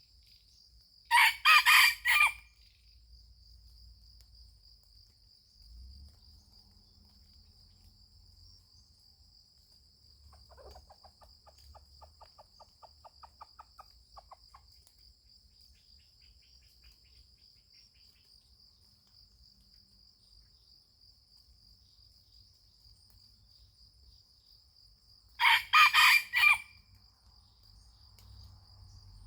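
A junglefowl rooster crowing twice, once about a second in and again near the end, each crow short and choppy. A steady high insect drone runs underneath, and a softer rapid pulsing call comes in the middle.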